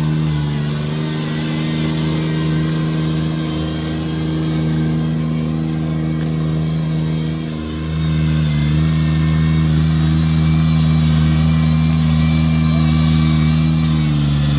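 Engine of a farm machine running at a steady speed, its pitch sagging briefly a few times as it takes load.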